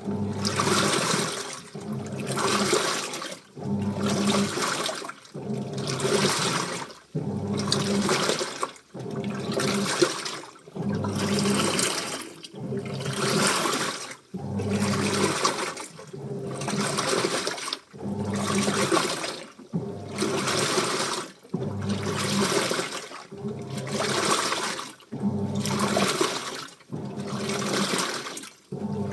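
Washing machine in its wash cycle: the drum turns in repeated surges, about one every two seconds, sloshing water and wet clothes, with the motor's low hum under each surge and short pauses as it changes direction.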